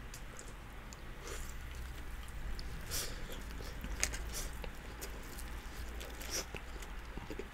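A person chewing a big mouthful of doner kebab meat close to the microphone, with irregular short mouth clicks.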